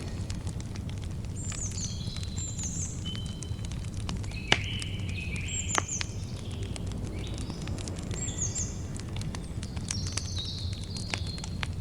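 Campfire crackling with many small snaps and two louder pops about four and a half and six seconds in, over a low steady rumble. Birds call again and again through it with short chirps and chirped phrases.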